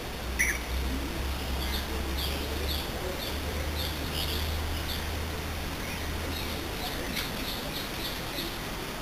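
Small birds chirping in the background: repeated short, high chirps, sometimes several in quick succession, over a low steady hum that stops about two-thirds of the way through.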